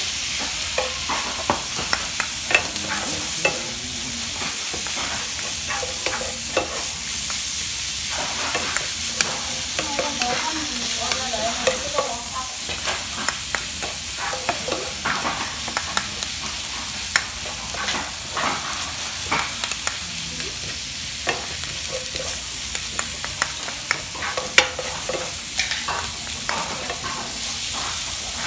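Rice with kimchi sizzling on a hot metal grill plate while two plastic spatulas chop and scrape through it: a steady frying hiss with frequent sharp taps and scrapes.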